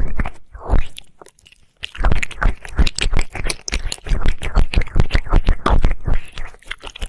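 Close-miked wet mouth sounds of ear licking: rapid licks, smacks and clicks, with a short pause of about a second near the start.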